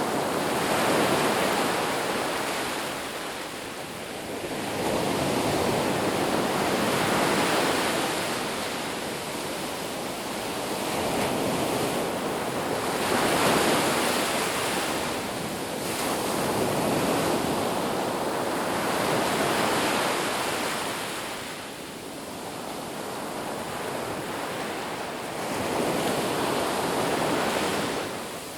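Ocean waves breaking on a beach, the surf rising and falling in swells every few seconds.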